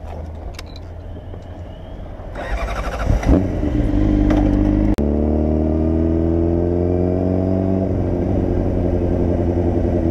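Motorcycle engine pulling away: it runs low at first, picks up about two seconds in, then its pitch climbs steadily through the middle and levels off. There is a sharp click with a brief cut in the sound about halfway.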